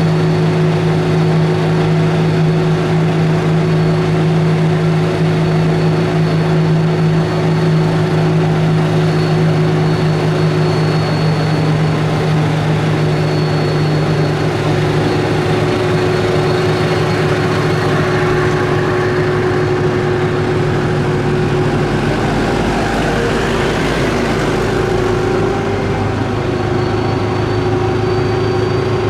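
Type 16 Maneuver Combat Vehicle's diesel engine idling steadily, with a deeper rumble joining about two-thirds of the way in.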